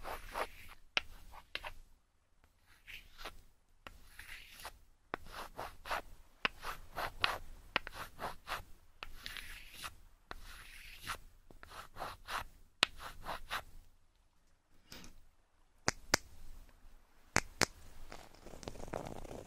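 Fingers rubbing and scratching across an ASMR ear microphone in quick clusters of strokes, with brief pauses between them. A few sharp finger flicks land in the last few seconds.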